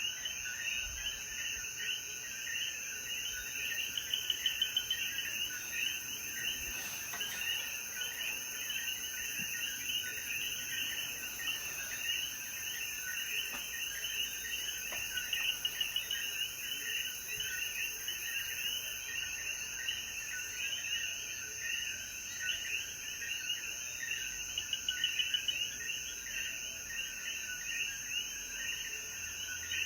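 A chorus of common coquí frogs calling, with many overlapping short two-note "co-quí" calls repeating densely. A steady high-pitched drone runs underneath. The chorus swells briefly a few times.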